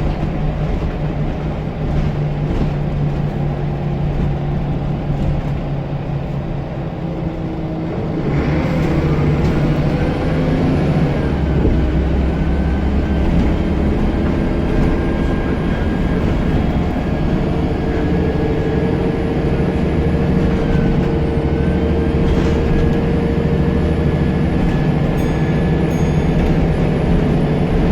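Scania L94UB bus's diesel engine pulling under load, its turbocharger whistle rising about eight seconds in as the engine gets louder and then held steady. The whistle dips briefly about two-thirds of the way through, then comes back.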